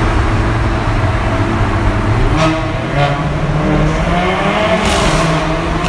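Mercedes-AMG A45's turbocharged four-cylinder engine revving hard in a road tunnel, its pitch rising and falling, with the tunnel echoing it. Several sharp exhaust pops crack out over the middle and near the end.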